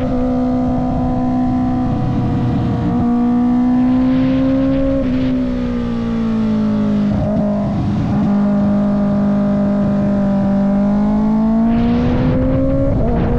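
2025 Kawasaki ZX-6R's 636 cc inline-four running through a Voodoo Racing slip-on exhaust, held at fairly steady revs while riding. The engine pitch eases down in the middle and climbs again near the end.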